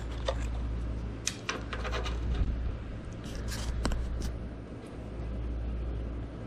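Light clicks and taps of a small metal transfer-case indicator switch being handled and set down on a hard surface, scattered over the first four seconds or so, over a steady low hum.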